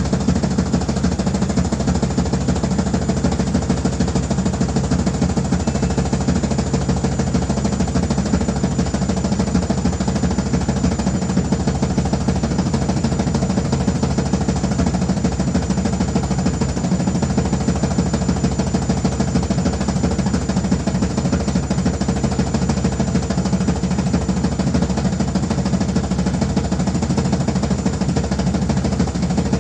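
Washing machine running loudly, with a steady, rapid rattling vibration and a constant hum.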